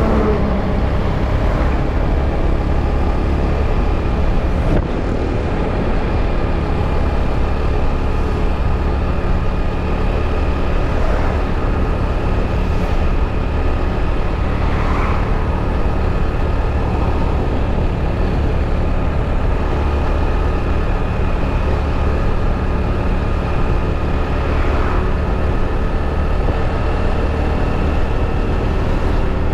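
Motorbike running steadily while being ridden, under a constant low rumble with a few faint steady whining tones.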